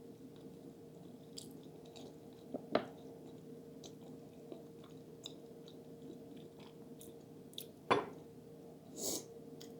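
Close-up chewing of cheesy lasagna, with small wet clicks of the mouth, two sharper knocks about 3 and 8 seconds in, and a brief breath near the end. A faint steady hum lies underneath.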